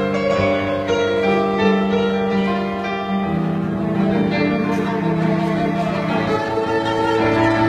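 Cello bowed in long held notes, moving slowly from note to note, with a second instrument playing along.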